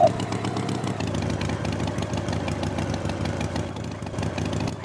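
An engine idling steadily with a fast, even pulsing rumble.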